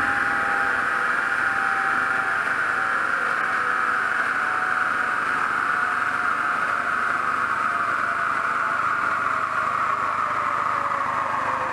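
Stage 2+ tuned VW Golf VI R's turbocharged 2.0 TSI four-cylinder, car moving at speed: a steady drone over road and wind hiss, its pitch sinking slowly throughout.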